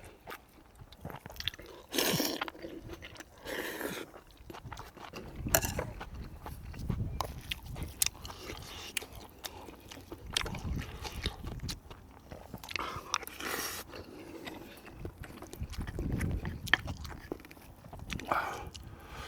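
A person eating close to the microphone: chewing and biting, with crunching and irregular small clicks.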